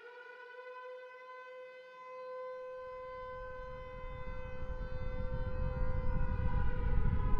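AI-generated nuclear explosion sound effect: an air-raid siren winds up and holds a steady wail. About three seconds in, a low rumble builds beneath it and grows steadily louder.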